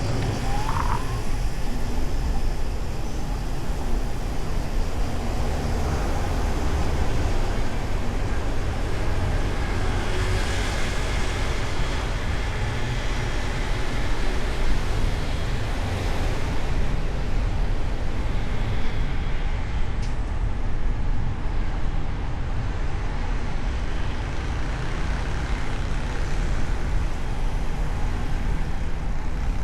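Car driving through city traffic, picked up by a hood-mounted microphone: a steady low rumble of engine, tyres and air, with the noise of surrounding traffic and a brief squeak about a second in.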